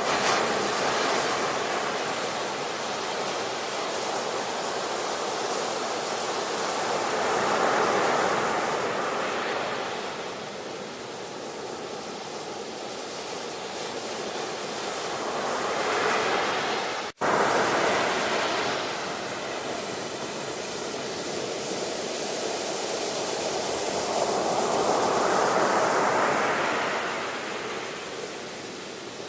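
Ocean surf: waves breaking and washing up the shore, the rush swelling and fading about every eight to ten seconds. The sound cuts out for an instant about seventeen seconds in.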